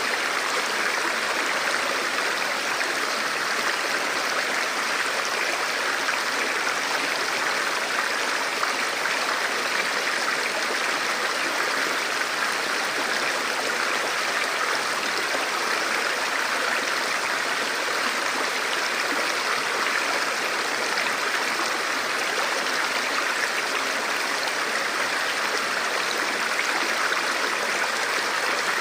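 Forest river flowing over rocks in a steady, even rush of water.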